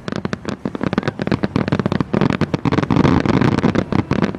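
Fireworks going off in rapid succession, a dense run of pops and crackles, thickest about two to three seconds in.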